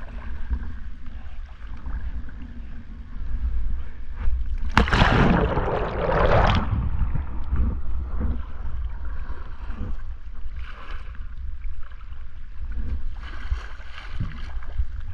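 Water splashing around a kayak as it capsizes and rolls back up: one loud splash starts suddenly about five seconds in and lasts about two seconds, with smaller splashes later. A steady low rumble, typical of wind on the microphone, runs under it.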